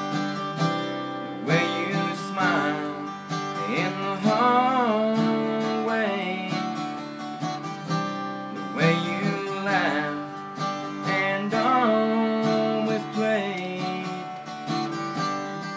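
Acoustic guitar playing a slow country song, an instrumental passage between sung verses.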